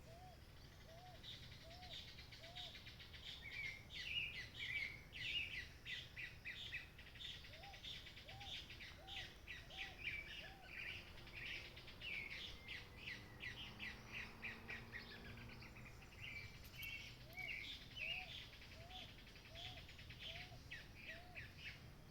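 Many birds chirping and calling together in quick, overlapping notes. A lower, arched call repeats about twice a second in short runs of five or six, near the start, about eight seconds in and again near the end.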